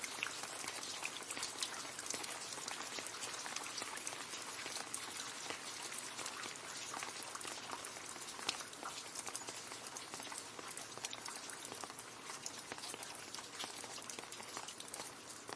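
Steady rain splashing into a puddle: a dense patter of many small drop splashes over a constant hiss.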